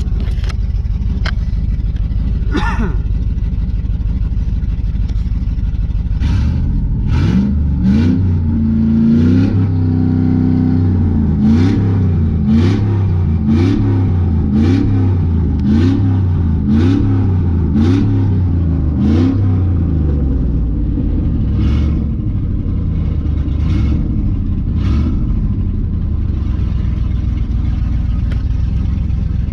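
Cammed pickup truck engine idling, then revved in a string of quick throttle blips about once a second for over ten seconds, then settling back to idle with a few more light blips near the end.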